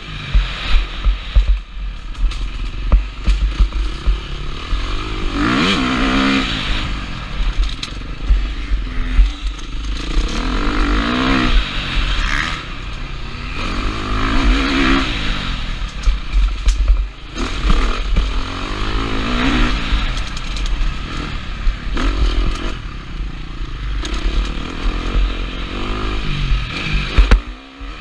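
KTM 350 SX-F motocross bike's single-cylinder four-stroke engine revving hard and backing off over and over, its pitch climbing and dropping every few seconds as the rider works the throttle and gears. Wind buffets the helmet camera throughout.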